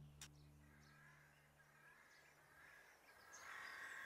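Near silence: faint rural ambience with distant birds calling, the calls a little louder near the end.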